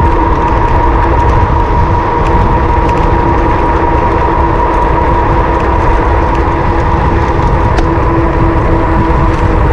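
Wind rumbling over an action camera's microphone on a moving electric bike, with a steady whine held at one pitch.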